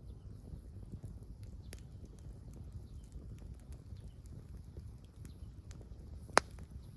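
Small wood campfire crackling, with scattered faint pops and one sharp, loud pop about six seconds in.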